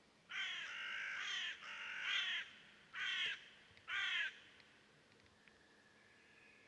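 A bird calling four times: two longer calls in the first two and a half seconds, then two shorter ones about a second apart.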